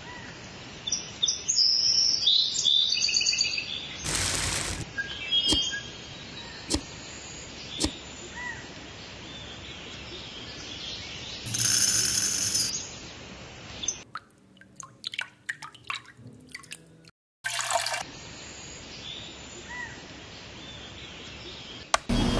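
Birds chirping in short calls, with scattered sharp clicks and two brief bursts of hiss, the louder one about twelve seconds in.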